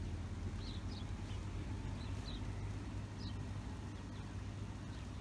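Small birds chirping now and then, short high chirps, over a steady low rumble.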